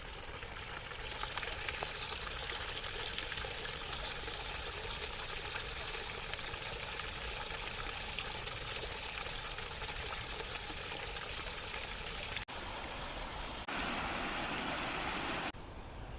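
Creek water running steadily, a continuous rushing, broken by a few abrupt cuts near the end where the sound jumps in level.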